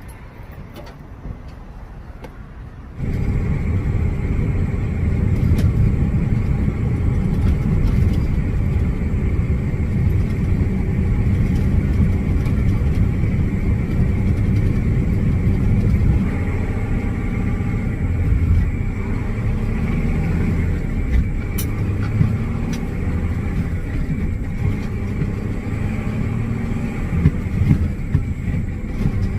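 Day cab semi tractor running down the road: a steady, loud, low engine and road rumble that starts suddenly about three seconds in, after a quieter stretch with a few clicks.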